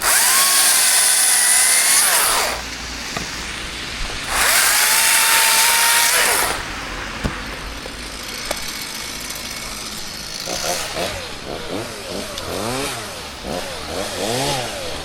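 Chainsaw engine revved twice to full throttle, each time for about two seconds, and dropping back to a lower running speed in between. From about ten seconds in, the throttle is blipped repeatedly, the pitch rising and falling about once a second.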